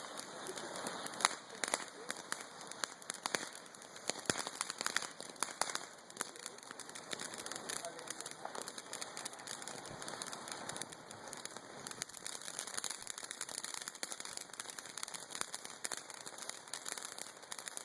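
Ground fountain fireworks spraying sparks: a continuous hissing crackle dotted with many sharp pops, the pops thickest in the first few seconds.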